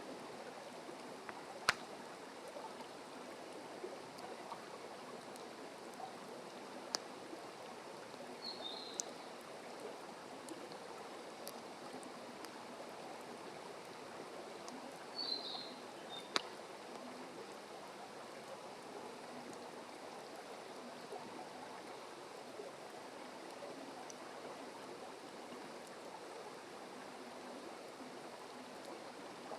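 Wood fire crackling with occasional sharp pops over a steady rushing hiss, with two short bird calls about nine and fifteen seconds in.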